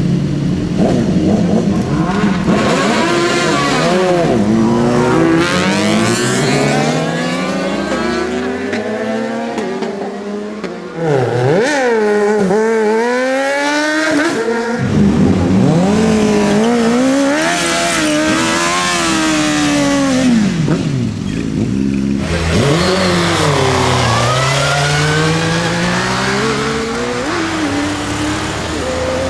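Sport motorcycle engines revving and accelerating past one after another, each pitch sweeping up and then falling away as a bike goes by.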